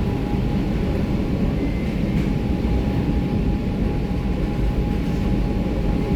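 Metro train running between stations, heard from inside the carriage: a steady rumble of wheels on track with a faint steady whine over it.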